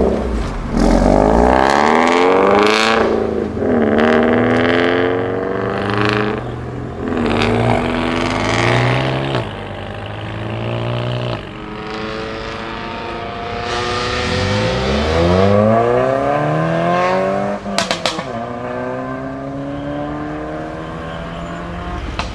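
Modified cars with aftermarket exhausts accelerating away one after another, engines revving up in several rising sweeps: first a wrapped Toyota GT86, then a Renault Clio. A sharp crackle comes about 18 seconds in, after the last run of revs.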